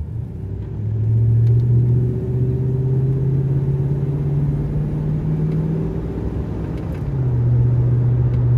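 Truck engine and exhaust through a Walker Quiet Flow muffler, heard from inside the cab, pulling away under light throttle. A low, mellow drone rises steadily in pitch, falls back around six to seven seconds in, then carries on low.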